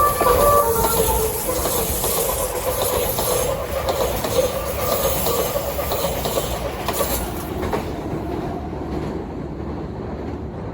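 The last notes of a Meitetsu electric train's musical horn melody end within the first second. The train then runs past on the curve with loud wheel-and-rail noise and some clatter, slowly fading toward the end.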